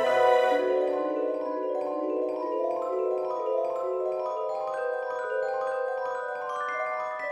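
Background music: gentle mallet-percussion melody in the manner of a marimba or vibraphone, notes stepping slowly upward.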